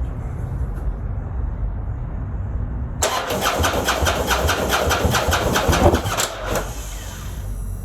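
Harley-Davidson V-twin being cranked over by its electric starter: a rapid, even chugging of about six pulses a second starts about three seconds in, runs for about three and a half seconds, then stops abruptly.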